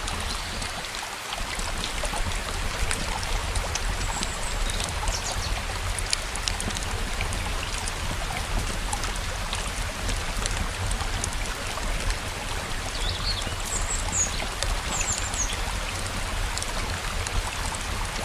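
A layered nature ambience: a steady rush of flowing stream water and rain, with scattered crackling clicks, and a few short high bird chirps about four seconds in and again near the end.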